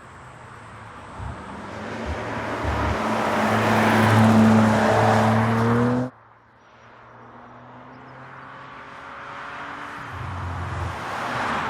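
Audi RS4 Avant's 2.9-litre twin-turbo V6 accelerating, growing steadily louder with its engine pitch rising, then cut off abruptly about six seconds in. A second run of the engine then builds up again, louder towards the end.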